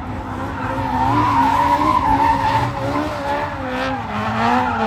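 Car engine held at high revs during a burnout, its pitch wavering up and down with the throttle, over the steady hiss and squeal of spinning tyres.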